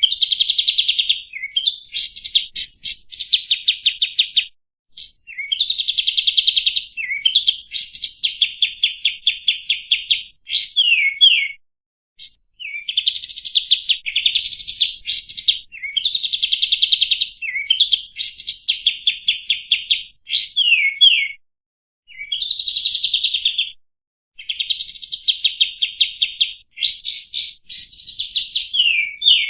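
Kapas tembak songbird singing: phrases of a few seconds each made of rapid buzzy trills and quick chattering strings of notes, with short pauses between them.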